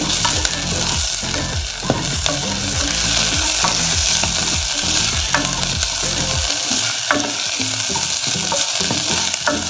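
Chopped onions and ginger-garlic paste sizzling in hot oil in a nonstick pan, stirred with a slotted spatula that scrapes and knocks against the pan now and then.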